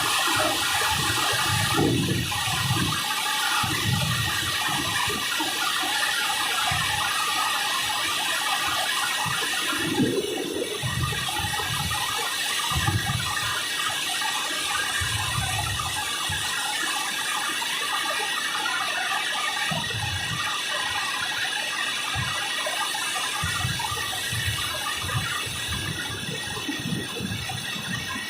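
Rain falling in a steady dense patter, with low rumbles coming and going underneath.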